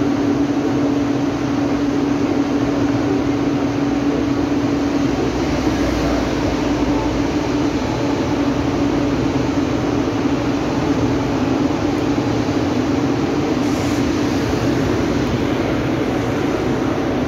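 ICE high-speed electric trains running through the station at speed: a steady, loud rush of wheels on rails and air, with a steady hum over the first few seconds.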